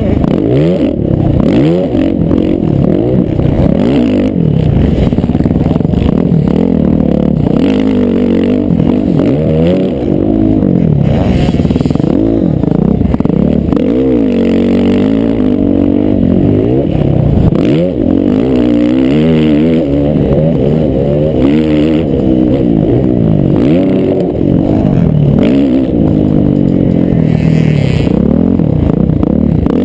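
Motocross dirt bike engines revving, rising and falling in pitch again and again as the bikes accelerate and shift, with several engine notes overlapping. The sound is loud and continuous throughout.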